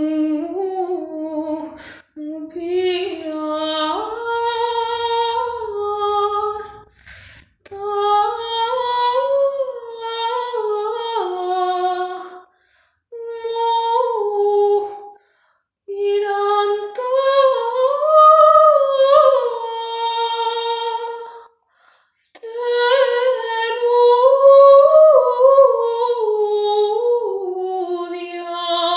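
A woman singing a Greek traditional folk song solo and unaccompanied, in slow, ornamented phrases with short pauses for breath between them.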